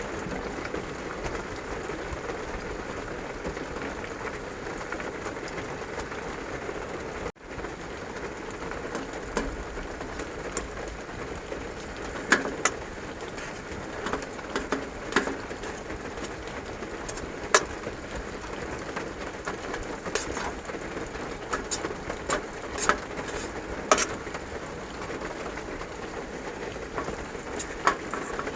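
Heavy rain falling steadily on a campervan, with scattered louder drop strikes. The sound cuts out for an instant about a quarter of the way in.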